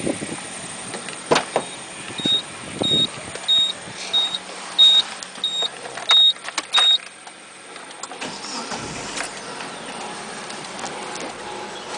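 A run of about eight short, high electronic beeps, roughly one every half second and some longer than others, with a few sharp clicks among them; after that only a steady background hum.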